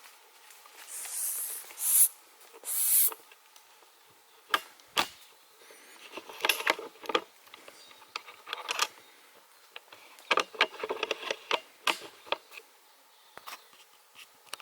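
Footsteps and rustling through bush undergrowth: a few swishes of vegetation brushing past, then scattered crackling snaps of twigs and dry leaves underfoot.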